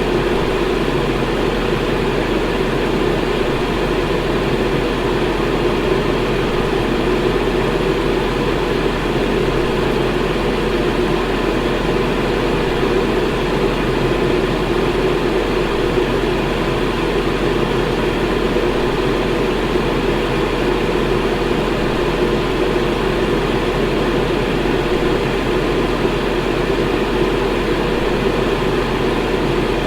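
Electric fan running steadily: an even whooshing hum with a low drone underneath and a faint steady tone, unchanging throughout.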